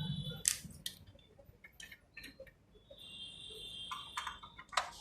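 Scattered light clicks and taps, as of small copier parts being handled and loosened, with a thin high steady tone for about a second just past the middle.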